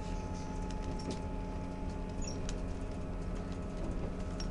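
Passenger train running, heard from inside the carriage: a steady low rumble with a faint steady hum, a few light clicks and a couple of brief high squeaks from the moving coach.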